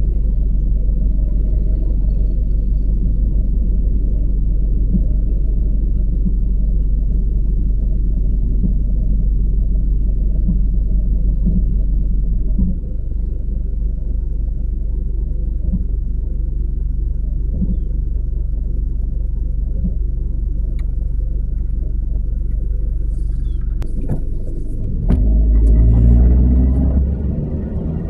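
Vehicle on the move, a steady low rumble of road and engine noise. A few sharp clicks come near the end, followed by a brief louder surge in the rumble.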